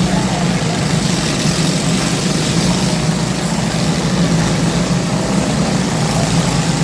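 Lawn tractor engines running with a steady, even drone.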